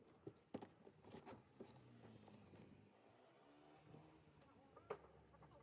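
Near silence broken by a few faint knocks and taps, with a faint low murmur in between.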